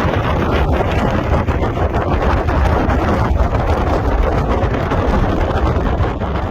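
Storm-force wind buffeting the microphone: a loud, steady, low rumble with a rushing hiss on top.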